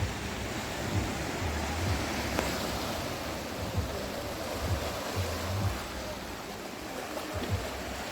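Sea surf washing onto a beach: a steady, even wash of noise with low rumbles that come and go.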